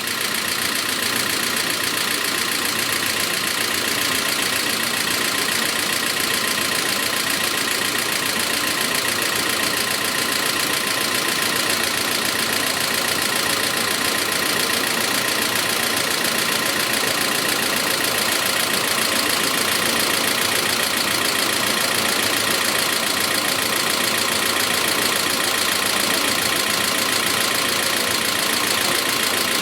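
Toyota 2TR-FE four-cylinder petrol engine idling steadily with a diesel-like knock, alongside a camshaft-position fault (P0014). The idle does not change while the scanner commands the exhaust-camshaft VVT-i valve open: the valve is not responding.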